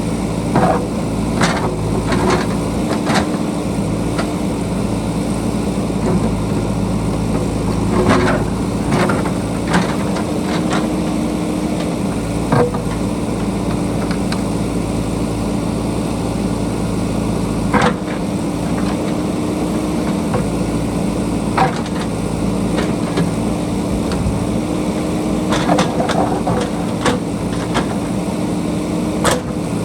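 JCB backhoe loader's diesel engine running steadily under work, with sharp clanks and knocks now and then from the digging.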